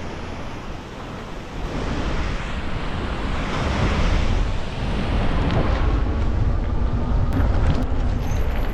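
Heavy wind buffeting on the microphone from riding an electric fat-tire bike at about 20 mph on throttle. A faint steady whine runs underneath in the second half.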